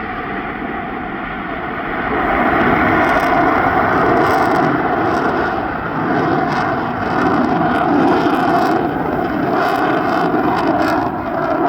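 Lockheed Martin F-35B's single jet engine in flight, a loud steady roar that swells a little after about two seconds.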